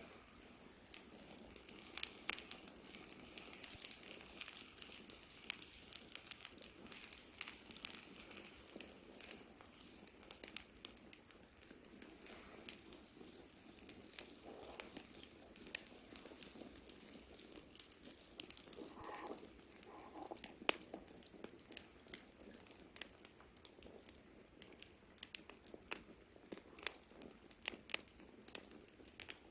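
Wood campfire crackling, with frequent irregular sharp snaps and pops over a soft background hiss.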